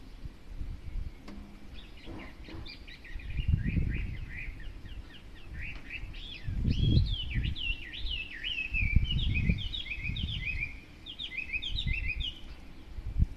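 A songbird sings a long, fast, varied song of quick whistled slurs. In its last few seconds it repeats short two-note phrases over and over. A low rumble swells and fades underneath several times.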